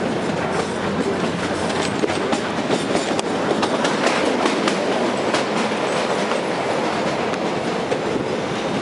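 Narrow-gauge toy train heard from inside a passenger carriage, running with a steady rumble as the wheels click over the rail joints. The clicks come thickest in the middle.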